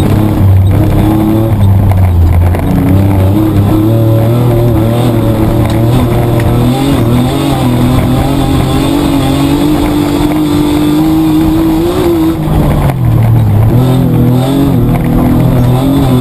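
Petrol engine of a Mitsubishi Triton 4WD heard from inside the cabin, running hard under racing load. Its pitch climbs in the first few seconds, holds high, drops briefly about three-quarters of the way through as the driver shifts or lifts, then climbs again.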